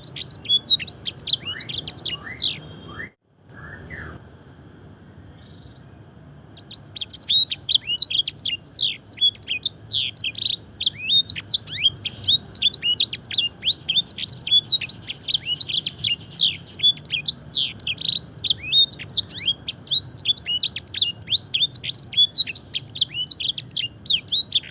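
Domestic canary singing a song filled with blackthroat phrases: a fast, continuous stream of short, high falling notes. It breaks off about three seconds in and starts again after a few seconds.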